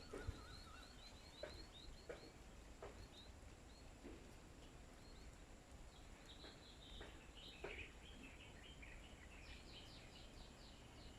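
Small birds chirping faintly in short, high, repeated notes, with a quicker run of chirps near the end. A few light ticks sound among them in the first part.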